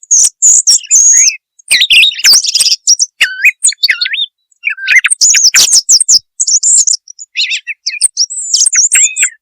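Song thrush singing: loud, varied phrases of clear whistles and fast chattering notes, mostly high-pitched with rising and falling glides, given one after another with short pauses between them.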